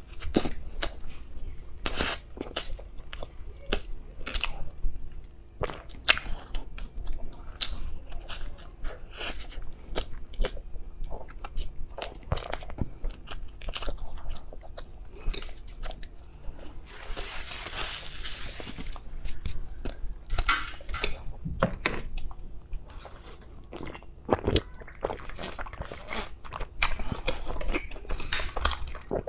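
Close-miked mouth sounds of a person eating soft cream-filled ice cream bread: biting and chewing, with many quick sticky clicks and smacks.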